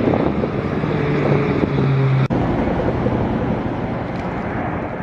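Steady rushing noise of strong wind on the microphone with a vehicle running, broken by an abrupt cut about two seconds in.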